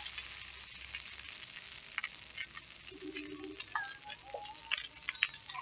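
Noodles and chopped vegetables frying in a black iron wok: a steady sizzle dotted with many short, sharp ticks and spatters.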